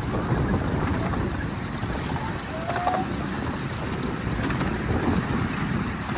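Miniature railway train running along its track: a steady low rumble of wheels and motion, with a short high chirp about two and a half seconds in.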